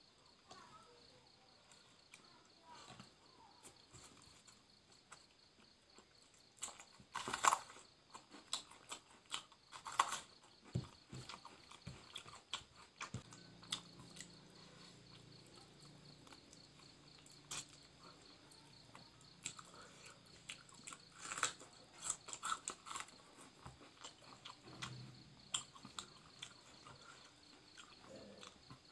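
Mouth sounds of eating by hand: chewing and lip smacks on rice and grilled tilapia, faint, with scattered soft clicks and a few louder smacks.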